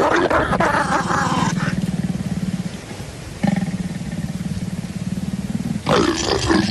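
Leopards growling and snarling during courtship: a harsh snarl at the start, a low rasping rumble that breaks off briefly midway, and another snarl near the end.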